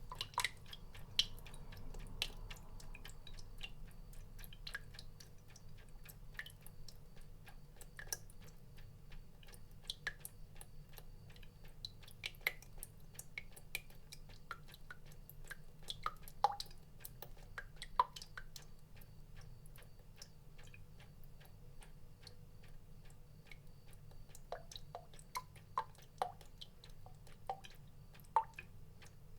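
Water drops falling irregularly, a scatter of sharp ticks and short plinks at no steady rhythm, over a low steady hum.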